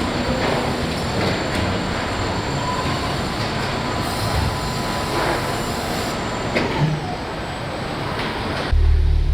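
Factory machinery running: a steady mechanical rumble with a faint thin whine and a few sharp clicks. Near the end it cuts abruptly to a louder, deep steady hum.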